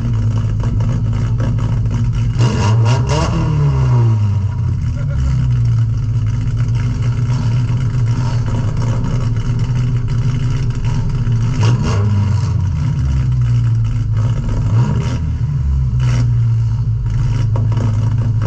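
Compact demolition derby car's engine idling loudly with open exhaust, heard from inside the car. It is revved up and back down once a few seconds in and blipped briefly twice more later.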